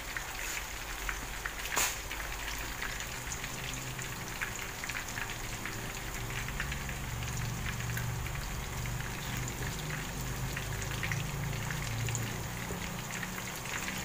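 Breaded fish fillet frying in hot oil in a pan, sizzling steadily with many fine crackles and pops. A single sharp click sounds about two seconds in.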